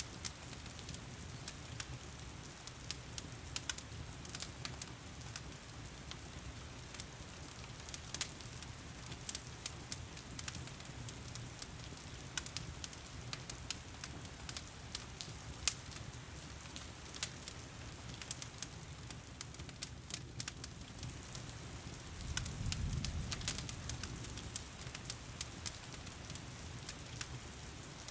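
Fire crackling in a stone fireplace, with scattered sharp pops and snaps, over a steady hiss of heavy rain. A low rumble swells briefly about two-thirds of the way through.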